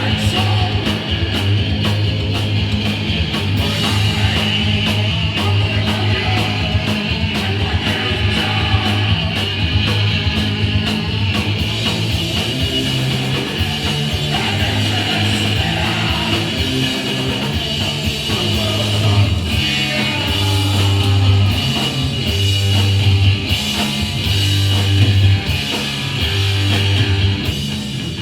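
Live hardcore punk band playing loud and fast: distorted electric guitar, bass guitar and a rapidly struck drum kit.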